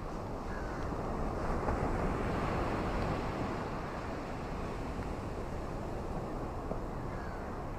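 Ocean surf washing onto a beach, a steady rush of noise that swells a second or two in and then eases back.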